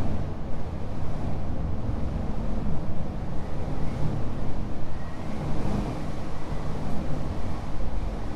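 Motorcycle running down the road, a steady low engine rumble mixed with wind rushing over the microphone.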